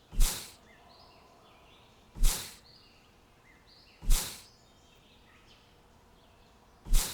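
Four short, loud hissing whooshes about two seconds apart, each dying away quickly, over faint bird chirps.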